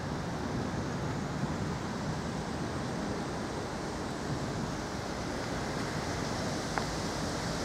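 Steady hiss of a thunderstorm's rain and wind.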